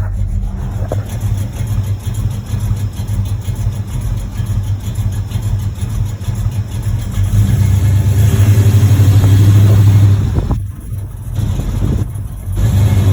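Monte Carlo SS's 355 small-block V8 running under way. It grows louder past the middle as it pulls harder, eases off twice, then builds again near the end. The engine has a rod knock in its bottom end.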